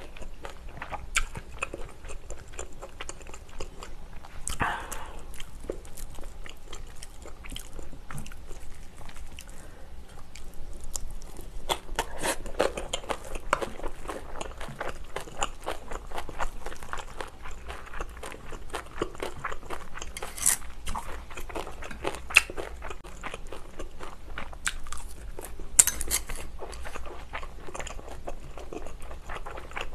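Close-miked chewing of a mouthful of rice and Korean side dishes, wet mouth sounds and crunching, with scattered sharp clicks of a spoon and chopsticks against a ceramic bowl.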